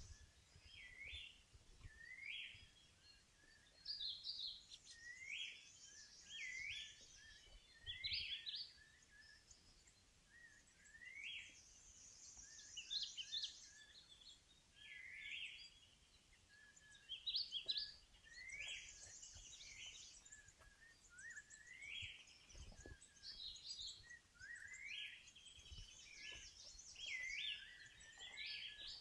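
Forest birds calling: short rising notes repeated every second or two, with thinner, higher chirps in between.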